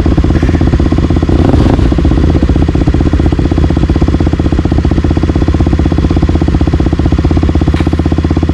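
Single-cylinder four-stroke dirt bike engine idling steadily, with an even, fast pulse and no revving.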